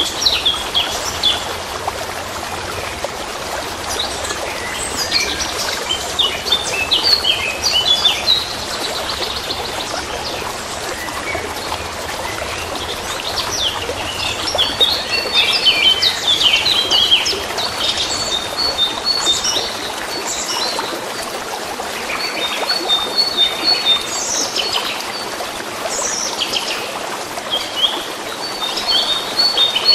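Songbirds chirping and trilling, many short calls over one another, over the steady trickle of running water.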